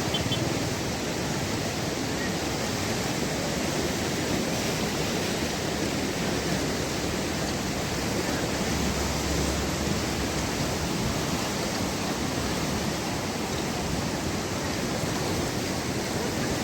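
River water rushing past in a steady, even wash of noise: a wadi flowing again after rain.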